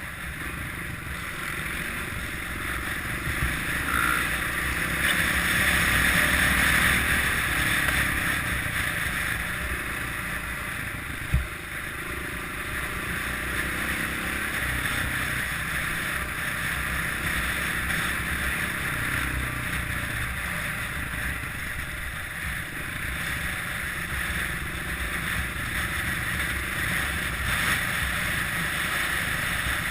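Kawasaki KLX650R single-cylinder four-stroke engine running steadily while riding, with wind noise on the microphone. One sharp knock sounds about eleven seconds in.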